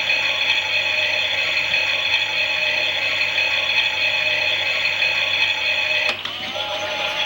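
Klein toy Miele washing machine's small electric motor and plastic gears turning the drum, a steady ratcheting whir. About six seconds in the sound changes abruptly to a quieter run with a wavering tone, as the drum's motion changes.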